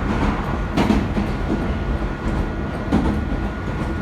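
Electric commuter train running, heard from inside the carriage: a steady rumble with a thin constant hum above it. There are a couple of soft wheel clacks, about one second and three seconds in.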